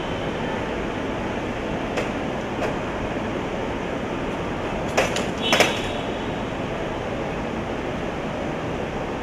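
Steady rumbling noise of a vehicle in motion, with a few sharp knocks and clatters about five seconds in.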